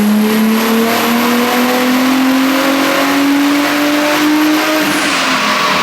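Turbocharged VR6 engine of a VW Golf R32 pulling at full throttle on a chassis dyno, its revs climbing steadily under load along with a faint high whine. About five seconds in the pitch drops suddenly as the run ends.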